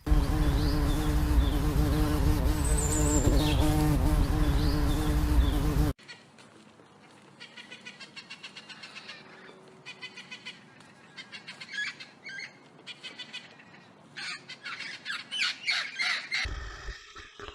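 Bird calls in two clips: first a few short high chirps over a loud low rumble and steady hum, then, after a cut, fast runs of repeated chirping squawks that grow louder near the end.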